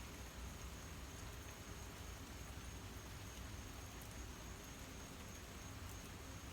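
Faint, steady outdoor ambience: a low rumble, like wind on the microphone, under a thin, unbroken high-pitched whine, with a couple of faint ticks.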